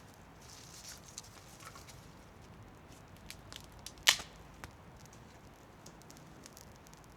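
Wood fire crackling, with scattered small pops and one loud sharp crack about four seconds in.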